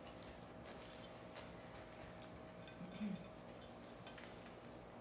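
Faint, scattered light clicks and clinks of utensils on dishes and jars during sandwich-making, over a steady low hum. A short murmur comes about three seconds in.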